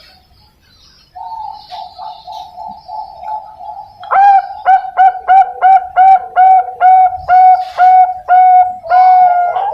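Young zebra dove (Bangkok perkutut) singing. A run of soft, quick coos turns, about four seconds in, into a louder series of clipped coos, about three a second, each with a quick upward start.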